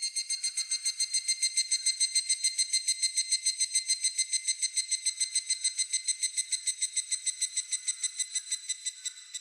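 Higurashi (evening cicada, Tanna japonensis) calling its 'kana-kana-kana' song: a rapid, high, pulsed trill of about eight pulses a second that swells in at the start and fades out near the end.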